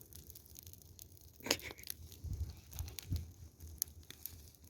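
Garden bonfire of dry plant debris crackling faintly with scattered pops, over a low rumble.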